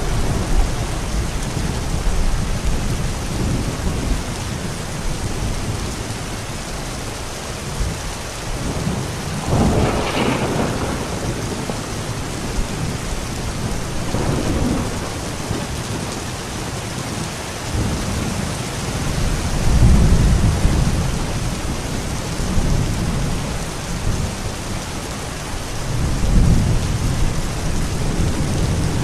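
Steady rain in a thunderstorm, with deep thunder rumbles swelling and fading several times.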